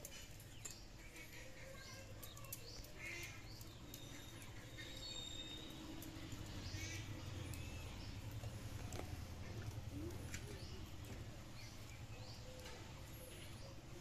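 Faint bird chirps and calls, with one held whistled note about five seconds in, over a low steady hum.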